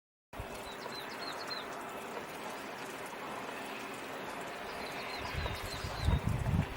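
Outdoor nature ambience: small birds chirping in quick series of short high notes, twice, over a steady rushing hiss. Low rumbling bursts come in near the end.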